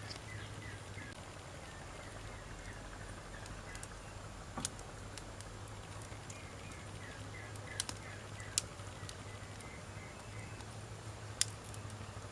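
Wood campfire crackling, with sharp pops at irregular intervals, four of them louder than the rest, over a steady low hum.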